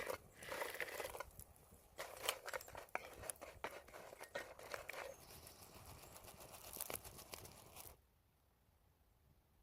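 A run of crisp crunching and crackling, many short sharp clicks, that stops abruptly about eight seconds in.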